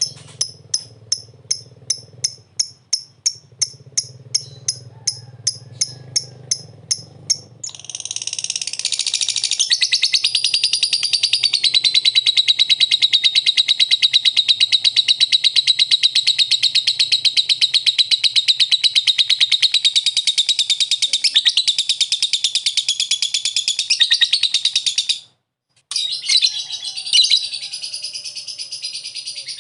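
Lovebird calling: a run of sharp, evenly spaced chirps about three a second, then from about eight seconds in a long, unbroken rapid chattering song, the 'ngekek' prized by lovebird keepers, which breaks off briefly near the end and starts again.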